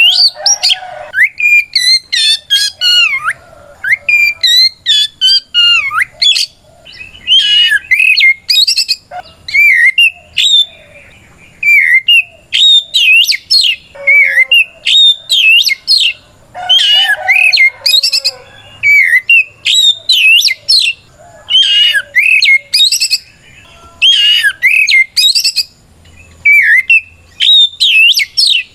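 Oriental magpie-robin singing a loud, full-voiced fighting song: fast, varied whistled phrases that glide up and down, mixed with sharp chattering notes, in bursts with short pauses between them. It is a challenge song calling out a rival.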